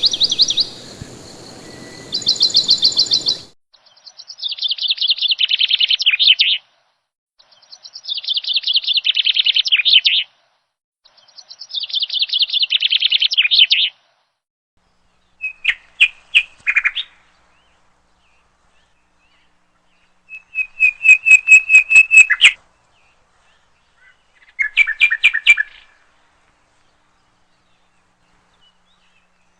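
Small songbird singing a series of rapid trilled phrases, each lasting two to three seconds and separated by silent gaps; after the first few phrases come shorter, choppier bursts of chirps. A faint hiss sits under the first few seconds and then cuts off.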